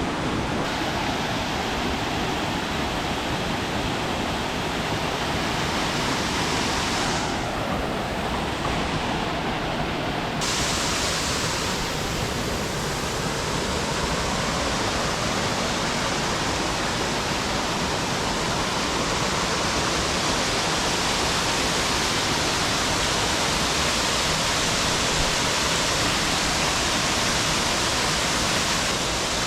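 Waterfall on Lewis Creek: water rushing steadily, with its hiss turning duller about seven seconds in and brighter again about ten seconds in.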